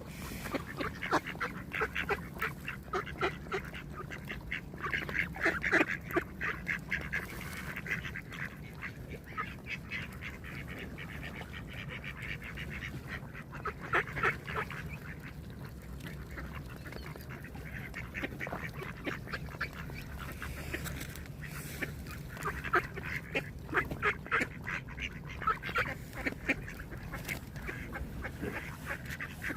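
Ducks quacking in runs of rapid, repeated calls. The bouts come near the start, briefly around the middle, and again in the last part, over a steady low background hum.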